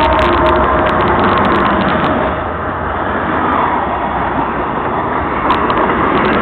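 Norfolk Southern freight train rolling past: a loud, steady rumble of wheels on rail with many sharp clicks. Faint steady tones fade out in the first second.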